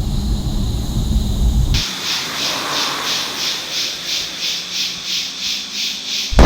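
Low rumbling wind noise on the microphone, cut off abruptly about two seconds in. A lit firework then hisses, pulsing about three times a second.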